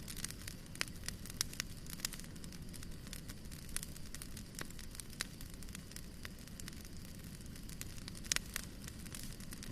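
Wood fire burning in a fireplace, crackling with irregular sharp pops over a steady low hiss of the flames, one louder pop near the end.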